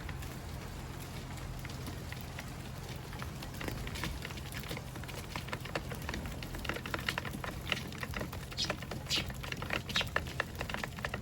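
Eurasian tree sparrows pecking seed at a feeder: a quick, irregular run of small clicks that grows busier after a few seconds.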